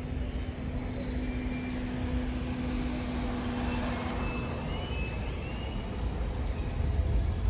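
A vehicle engine running steadily against an outdoor background rumble, with a steady hum that stops about two-thirds of the way through.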